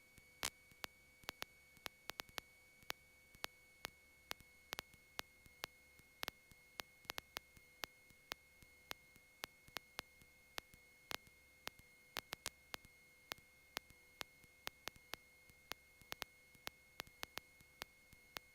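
Near silence on a direct intercom audio feed: a faint steady high tone with irregular sharp electrical ticks, several a second.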